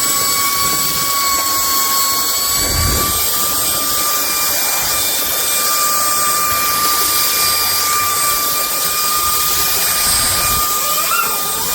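Vistefly V15s Max cordless stick vacuum cleaner running steadily: a high motor whine over a rushing hiss of air. There is a dull low thump about three seconds in and another near the end.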